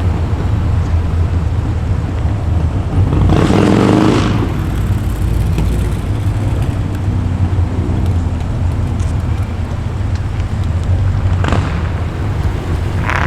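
A car engine running at low speed as a car rolls past: a steady low rumble, with one louder burst of noise about three to four seconds in.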